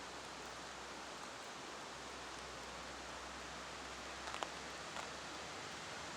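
Steady rain falling, an even hiss with a few louder drops ticking about four and five seconds in.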